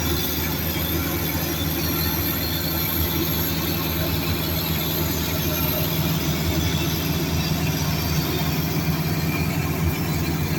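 Heavy diesel earthmoving machinery running steadily, a constant low engine hum with mechanical noise over it.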